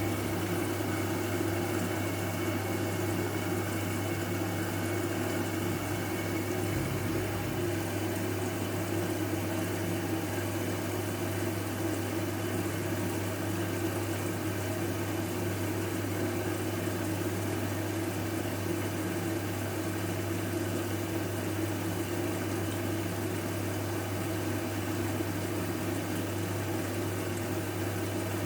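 Washing machine running a load of blankets: a steady, unchanging low hum over a faint noisy wash.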